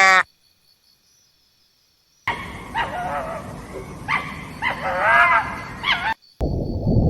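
A dog yipping and whining: about six short high calls that bend up and down in pitch, over a rustling background. Near the end they give way to a steady low rushing noise.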